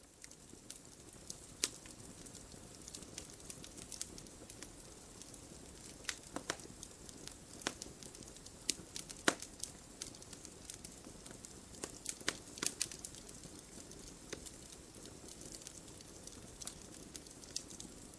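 Wood fire burning in a fireplace: irregular sharp crackles and pops of burning logs over a steady soft hiss.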